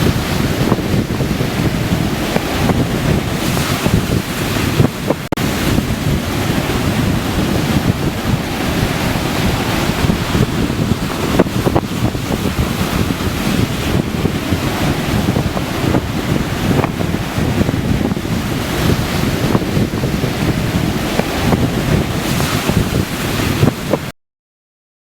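Ocean surf washing on a beach, with wind buffeting the microphone in a heavy low rumble. It cuts off suddenly near the end.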